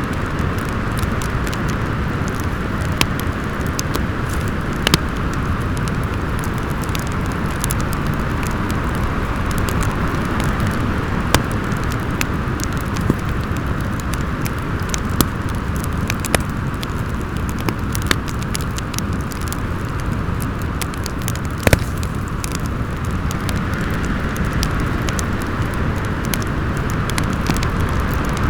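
Steady rushing wind from a snowstorm, with a low rumble, under a wood fire crackling: scattered sharp pops every second or two, one louder snap about two-thirds of the way through.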